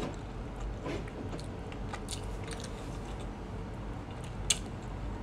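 Close-up mouth sounds of a person chewing a mouthful of rice and dried fish, with small scattered clicks and one sharp click about four and a half seconds in.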